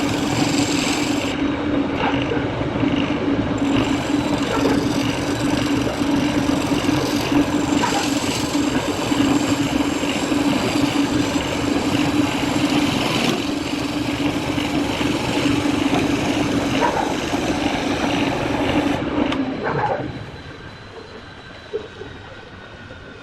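Wood lathe running with a tool cutting into the spinning wood: a steady hum under a rough, hissing scrape. Both the hum and the cutting stop about twenty seconds in.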